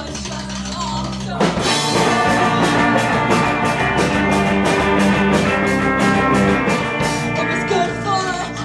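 A rock band playing live. A lighter passage gives way to the full band with drums and crashing cymbals about a second and a half in, and it eases back again near the end.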